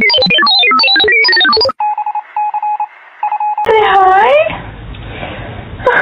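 A fast run of pitched notes, then a string of short beeps on one pitch, then a cat meowing once, its pitch dipping and rising, about four seconds in.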